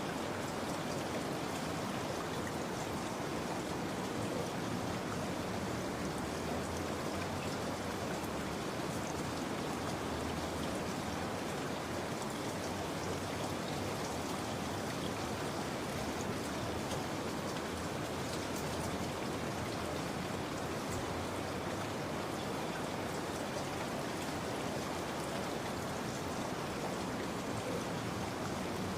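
Steady rain falling, an even hiss of raindrops on surfaces with no break or change.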